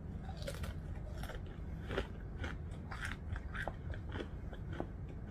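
A person chewing crunchy fried food close to the microphone: irregular crunches and wet mouth clicks several times a second.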